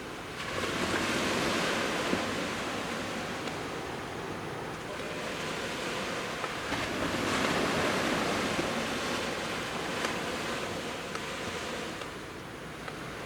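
Sea waves breaking and washing up on a beach, one surge about half a second in and another around seven to eight seconds, between them a steady wash of surf.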